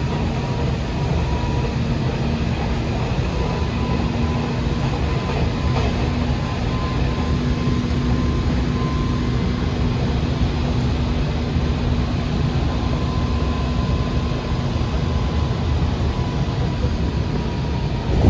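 Hanshin Railway electric train running at speed, heard from inside the car: a steady low rumble of wheels on rails with a faint steady tone over it, briefly louder near the end.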